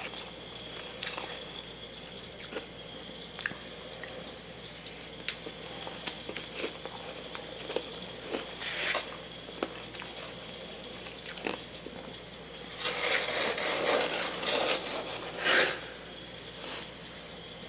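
Soft freezer frost being bitten and chewed close to the microphone. There are scattered small crunches and clicks, a short crunchy burst about halfway through, then a dense run of crunching chews about three seconds long near the end.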